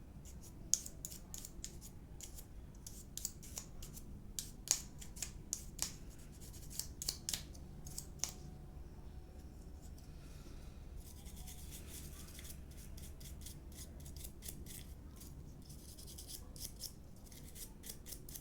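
Hand work on a disassembled hair dryer: a quick run of sharp clicks for the first eight seconds or so, then softer scraping and rubbing.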